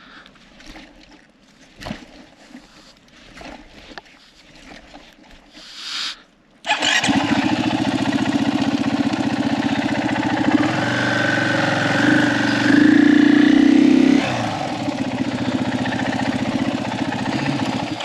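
Motorcycle engine starting abruptly about seven seconds in and running, revved harder for a couple of seconds before settling back, while the bike sits stuck in deep mud.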